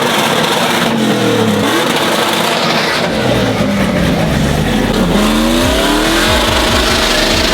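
A vehicle engine revving hard, its pitch rising and falling several times over a dense rush of noise.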